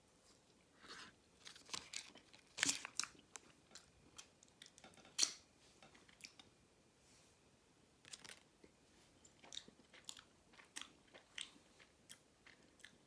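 A person chewing a cold, firm quark protein bar, with irregular soft mouth smacks and small crunches. A few louder bites come in the first half and a quicker run of chews comes near the end.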